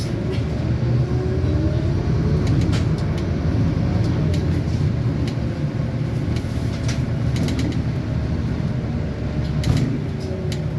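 Scania N230UD double-decker bus's five-cylinder diesel engine running steadily, heard from inside the bus, with frequent rattles and clicks from the bodywork and a louder knock near the end.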